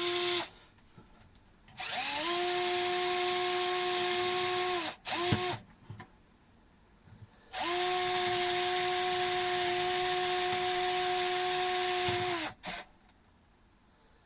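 Electric drill boring holes through a camper's plywood floor. It runs in two main spells of about three and five seconds, each starting with a rising whine as the motor spins up, with short blips at the start and in between.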